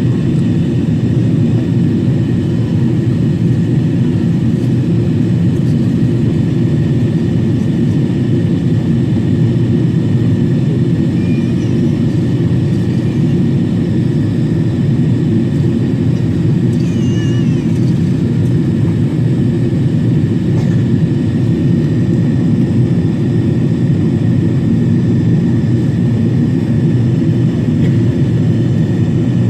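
Steady in-flight cabin noise of a Boeing 777-300 jetliner: an even, deep rush with a faint constant high whine.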